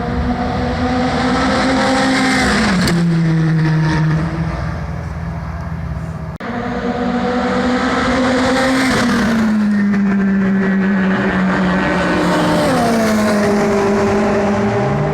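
Ferrari F430s' 4.3-litre V8 engines running hard at high revs as the cars pass at speed. Each engine's pitch drops sharply as a car goes by, three times.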